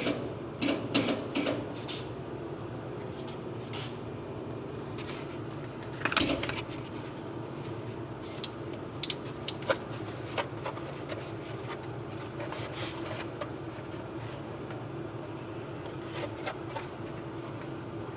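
Steady low mechanical hum with scattered short clicks and knocks of tools and parts being handled, a cluster of them near the start, one louder knock about six seconds in and a few more around nine to ten seconds in.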